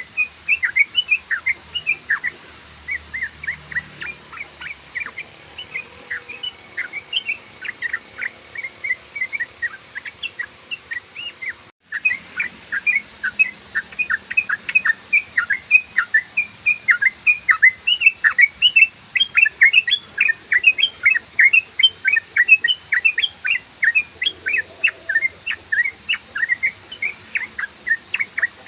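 Yellow-vented bulbul (trucukan) singing a rapid, unbroken run of short chirping notes, about four a second: the fast 'ropel' style of song. It cuts out for an instant about twelve seconds in, then carries on even denser.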